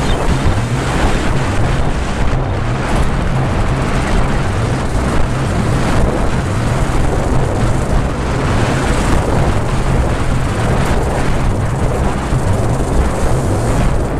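Aprilia ETX Tuareg 125's single-cylinder two-stroke engine running steadily under way off road, its pitch shifting slightly with the throttle, with wind buffeting the microphone.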